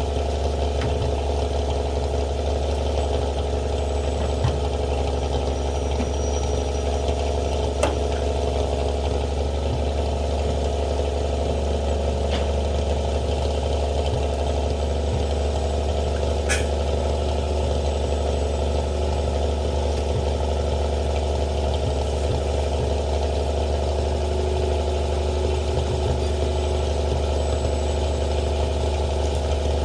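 Winch truck engine idling steadily, with a few sharp clicks over it.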